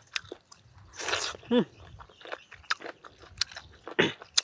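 Mouth sounds of someone eating grilled pork head: wet chewing and lip-smacking clicks, with a short falling whine about a second and a half in.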